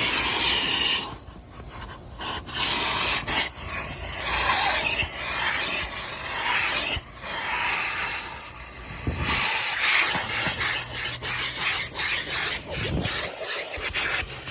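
Car wash vacuum hose with a nozzle tool sucking air with a hiss that swells and drops every second or two as the tool is worked over the car's interior, with rubbing and scraping of the tool on the surfaces.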